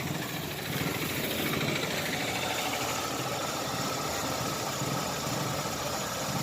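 Chevrolet Optra's four-cylinder petrol engine idling steadily but rough, with a slight misfire that makes the engine shake.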